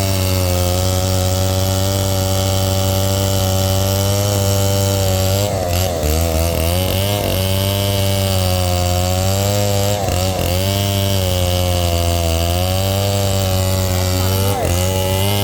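A 707 chainsaw with a freshly rebuilt engine running hard while cutting wood. Its pitch sags and recovers several times as the chain takes and releases the load.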